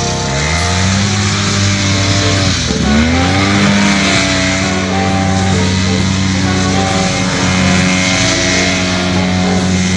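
Vintage snowmobile engine revving up, dropping off the throttle about three seconds in and climbing back, then holding steady at high revs.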